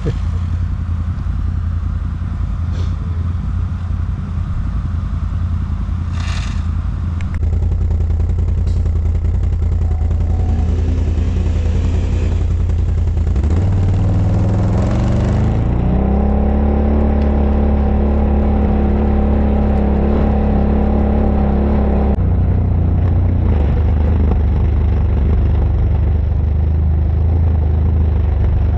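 ATV engine running under load off-road. About halfway through, its pitch rises and holds at higher revs for several seconds, then drops back.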